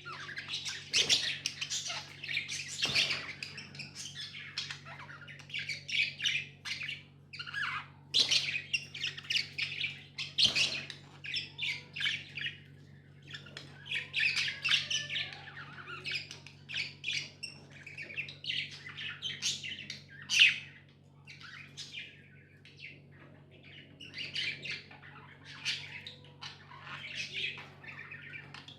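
Pet budgerigars chirping and chattering in quick, overlapping high calls with short pauses, over a steady low hum.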